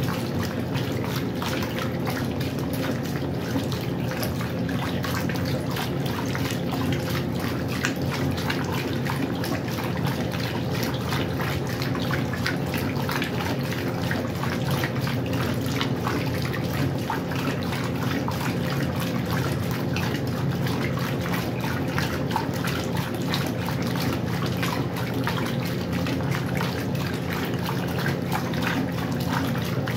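Westinghouse washing machine running with water in it: a steady motor hum under continuous splashing water noise, unchanging throughout.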